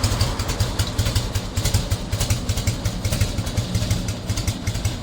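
Harley-Davidson FLSTC Heritage Softail Classic's V-twin engine idling, a steady run of low pulsing exhaust beats.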